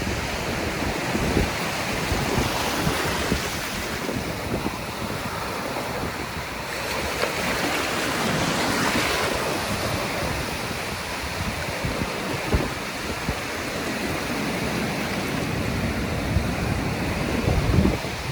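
Surf washing on the beach under strong, gusting wind that buffets the microphone with a low rumble; the surf swells louder for a few seconds in the middle, and there are a couple of brief knocks.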